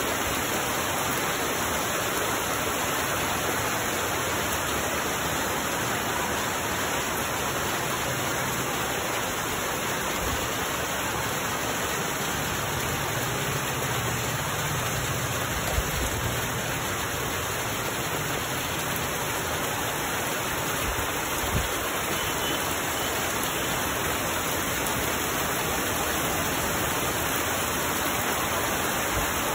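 Steady rain falling on trees and foliage, an even hiss that doesn't let up. Twice in the middle a brief knock stands out above it.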